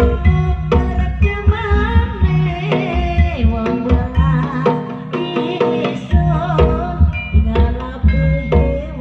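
Jaranan music: hand drums play a quick, driving rhythm under a wavering melody line, with singing.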